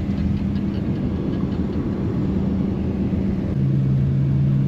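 GMC pickup truck driving, its engine and road noise running steadily. About three and a half seconds in, a lower steady hum joins and the sound gets a little louder.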